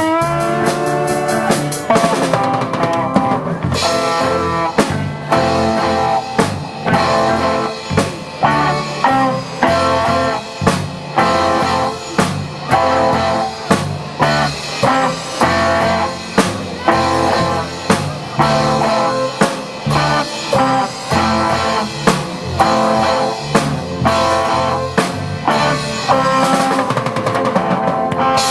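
A live rock band playing: a drum kit keeping a steady beat under electric guitar and bass, with a guitar slide at the start.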